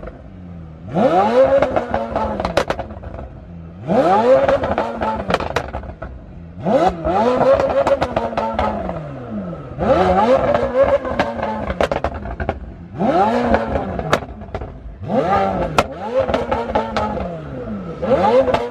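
A high-performance car engine revved hard about six times in a row, each rev climbing and then falling back over a couple of seconds, with sharp cracks and crackles between the revs.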